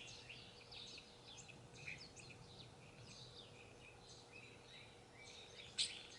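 Faint birdsong: several birds chirping in quick, short notes, with one sharp click near the end.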